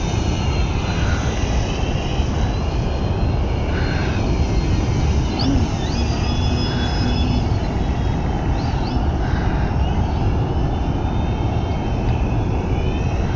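Electric motor and propeller of a small radio-controlled aerobatic plane whining, the pitch rising and falling as the throttle changes, over a steady rumble of wind on the microphone.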